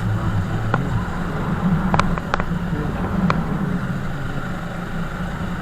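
Motorcycle engine running steadily, with a few short sharp clicks about two seconds in and again about three seconds in.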